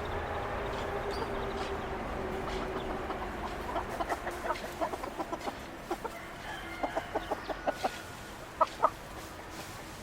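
Chickens clucking, with a run of short clucks in the second half and two louder ones near the end.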